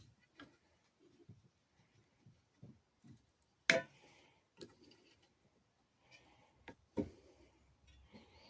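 Scattered light clicks and knocks from handling minibike front-fork parts while trying to free a stuck plastic tube from a fork leg. One sharper knock comes a little before the middle and another near the end.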